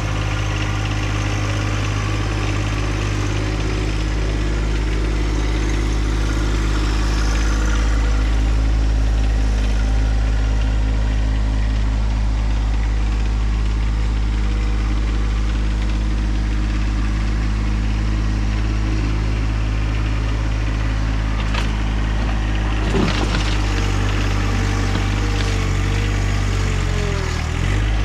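John Deere 1025R compact tractor's three-cylinder diesel engine running steadily while working the 260B backhoe. A couple of knocks come about three-quarters of the way through, followed by a whine that wavers in pitch near the end.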